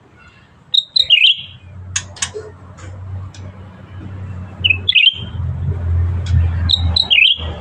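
Cucak ranting bulbul singing three short, quick warbled phrases: about a second in, around five seconds, and near the end. A low steady hum runs underneath, with a couple of sharp clicks about two seconds in.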